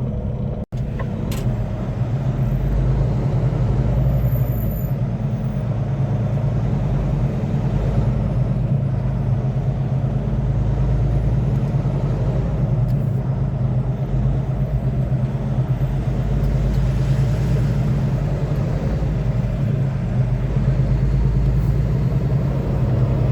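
Semi truck's diesel engine running steadily under way, a low hum with road noise, as heard from inside the cab.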